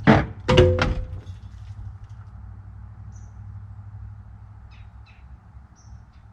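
A few sharp clunks in the first second, then the steady low hum of a small electric hydraulic pump running to lift a dump bed loaded with sand.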